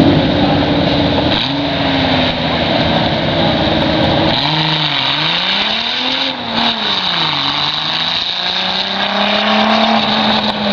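Car engine running on an autocross course, its revs rising and falling several times from about four seconds in as the car accelerates and lifts, over a steady noisy background.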